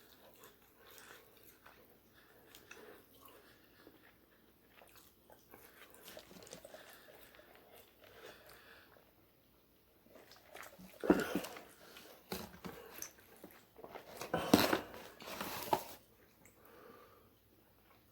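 Close-mic chewing and biting of McDonald's spicy chicken nuggets, eaten without sauce, soft and irregular. Two louder noisy spells break in, about eleven and fifteen seconds in.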